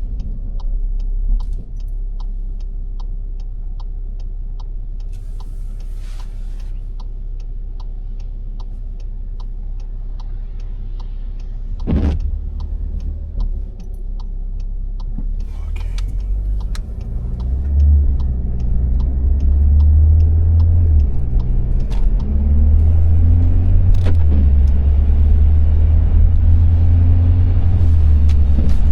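Inside a car: an even, rapid ticking, typical of a turn-signal relay, runs over a low engine hum while the car waits. About two-thirds of the way through, the car pulls away and the engine drone grows louder and rises in pitch through the gears.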